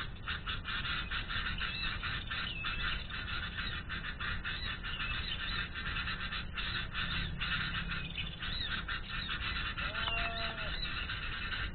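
Dense, continuous chirping of many small birds over a steady low rumble, with a short, lower call about ten seconds in.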